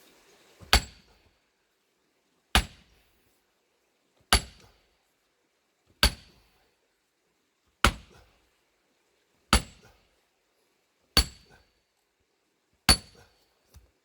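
Eight heavy strikes at an even pace, about one every 1.7 seconds, each with a short metallic ring. The sound is typical of a sledgehammer driving a steel splitting wedge into a big plane-tree log.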